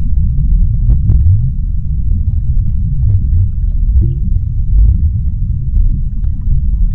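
Underwater sea ambience: a loud, steady low rumble with faint scattered clicks and crackles over it.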